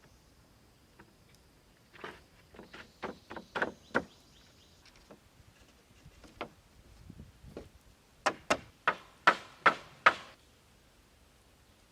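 Hand tool striking wood: a run of sharp knocks, then a louder run a few seconds later, about three blows a second.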